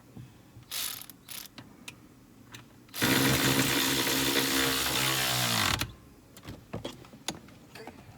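Electric power tool running for about three seconds, then winding down with a falling pitch, after a few sharp clicks of hand work.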